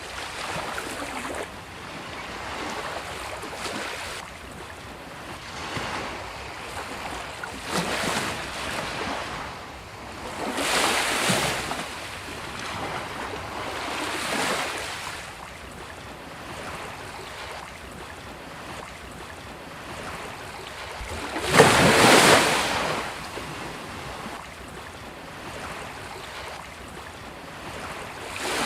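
Sea waves breaking on a beach, each wash swelling and fading every few seconds, with one heavier break about three-quarters of the way through.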